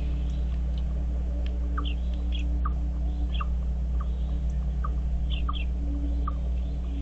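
Birds chirping: short chirps repeated irregularly about every half second, with higher twittering now and then, over a steady low hum.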